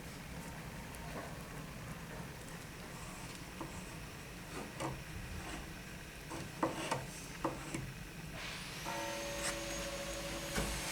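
Workshop handling: scattered light knocks and clicks over a steady low hum, then a small electric motor spins up about eight seconds in and runs steadily.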